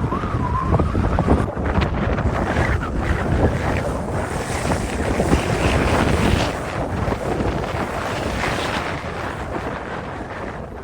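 Strong blizzard wind gusting and buffeting the microphone. A faint wavering whistle sounds in the first second, and the gusts ease a little after about six seconds.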